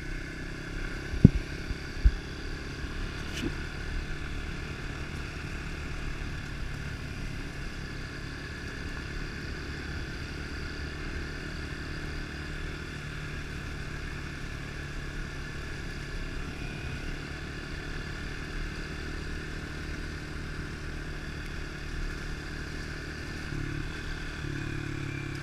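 A 110cc single-cylinder four-stroke pit bike engine running at a steady, even speed while being ridden. Two sharp knocks come about a second and two seconds in.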